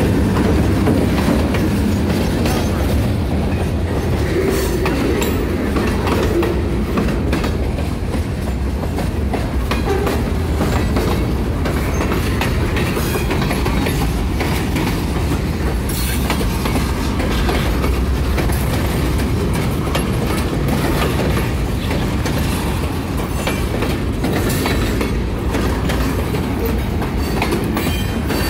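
Freight train of covered hopper cars rolling past close by: a steady low rumble with the wheels clicking and clacking over the track.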